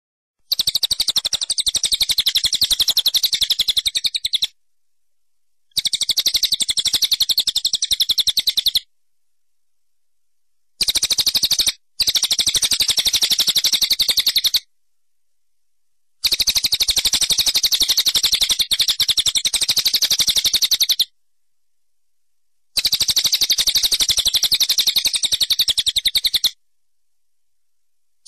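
Birds chirping in a rapid, even trill. The sound comes in runs of about three to five seconds, cut by dead-silent gaps of a second or two.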